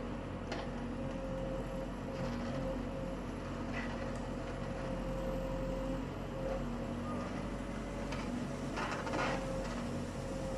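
Diesel engine of heavy machinery running steadily at an even pitch, with a few short knocks and clatters, the most noticeable about nine seconds in.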